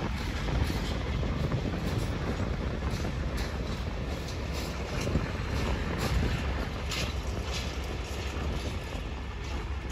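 Freight wagons rolling past on the track: a steady low rumble of wheels on rail, with irregular clicks and clanks as the wheels cross rail joints.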